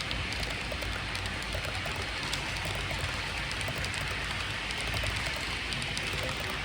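A model train rolling along layout track: a steady whirring hiss with faint, irregular clicks from the wheels on the rails.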